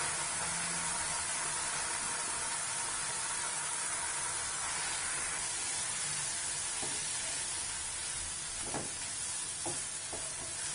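Soaked poha sizzling in hot ghee in a kadai as it is stirred with a wooden spatula: a steady frying hiss, with a few light spatula taps and scrapes in the last few seconds.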